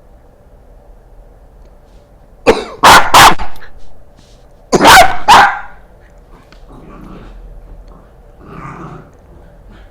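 A person coughing and a Welsh Corgi puppy barking at the coughs, in two loud bursts about two seconds apart, each of two or three quick sounds.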